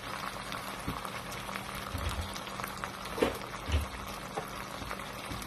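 Canned Spanish sardines and their oil sizzling and bubbling in a wok with sautéed onions, with many small scattered pops.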